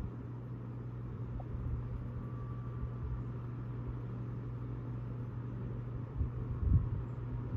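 Vintage Emerson Electric 16-inch table fan running: a steady motor hum over a low, fluctuating rumble, with a few low bumps near the end.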